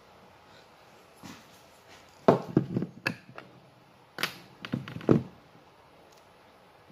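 Two quick clusters of knocks and clatter, one about two seconds in and one about four seconds in, from PVC pipe and fittings being handled and set down on a hard surface.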